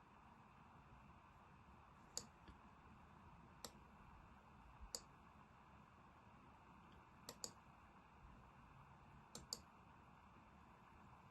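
Faint computer mouse clicks, single and in quick pairs, about eight in all, over quiet room tone.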